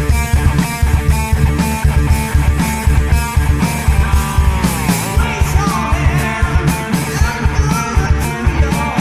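Heavy metal band playing: distorted electric guitars, bass and drums with a steady beat. About halfway through, a note slides sharply down and back up.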